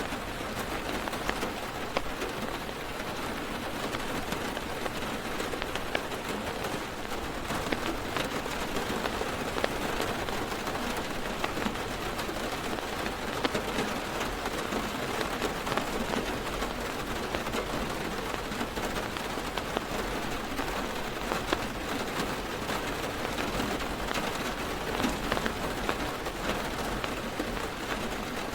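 Heavy rain drumming steadily on a car's roof and windows, heard from inside the car: a dense hiss of drops with frequent small individual ticks.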